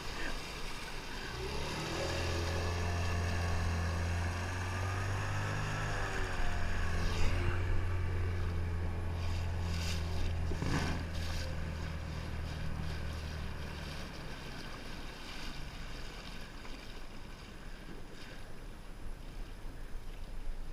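A 15 hp outboard motor running with a low, steady drone; its pitch dips briefly about a quarter of the way in, and the drone fades out about two-thirds through.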